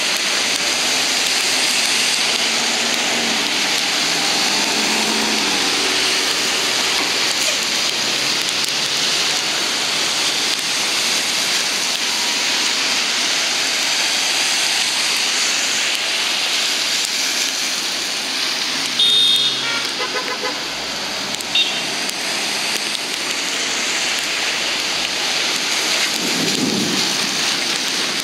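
Heavy rain falling steadily in a thunderstorm downpour. About two-thirds of the way through, a brief horn toot sounds, with a shorter blip a couple of seconds later.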